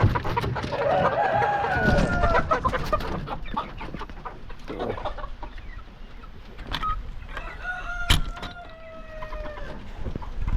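Chickens clucking and calling, with two long drawn-out calls, one near the start and one in the second half, among short knocks and rustles.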